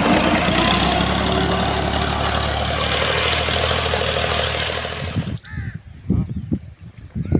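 Tractor engine running steadily and loudly, cutting off suddenly about five seconds in; then several crows cawing.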